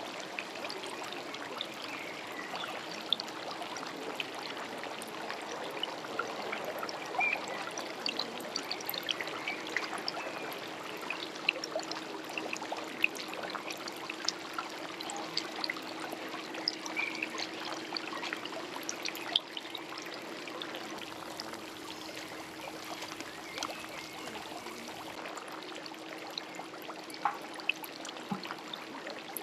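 Steady trickling water with many small scattered ticks and a faint steady low hum underneath.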